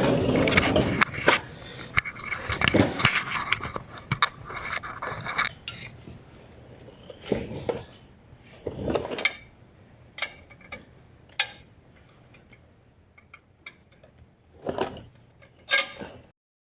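Metal hand tools clinking and scraping as a socket and ratchet work the torque converter bolts: a busy run of quick clicks and clatter for the first five seconds or so, then scattered separate clinks.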